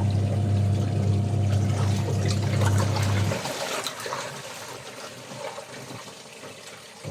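Water trickling and splashing with a steady electric motor hum, like a pump. The hum cuts off about three seconds in, and the water keeps trickling and dripping afterwards.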